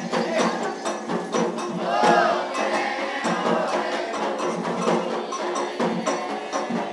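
Candomblé ceremonial music: hand drums and a struck bell or clapper beating a steady rhythm under voices singing.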